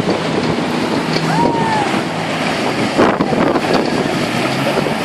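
Motorboat engines running on open water with a steady hum and the wash of water, wind buffeting the microphone, and a louder rush about three seconds in.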